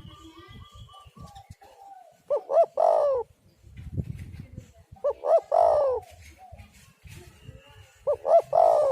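Spotted dove cooing: three phrases about three seconds apart, each two short notes followed by a longer, rolling coo. Fainter chirping of other small birds sounds between the phrases.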